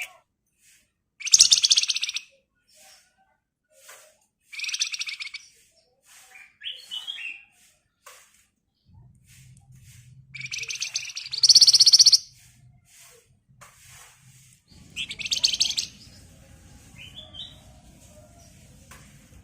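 Flamboyan songbird singing in fast, dense rattling trills: four bursts, the loudest about halfway, with a few short stepped notes between them.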